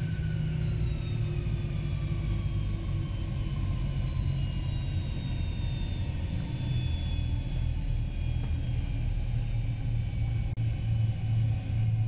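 Gulfstream G-IV's Rolls-Royce Tay turbofan engines heard from the cockpit while taxiing: a steady low rumble with several turbine whines slowly falling in pitch as the engines settle back toward idle.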